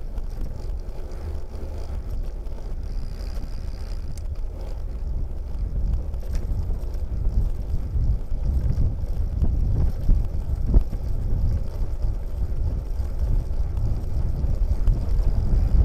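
Wind buffeting the microphone: an uneven, gusting low rumble that grows somewhat louder toward the end.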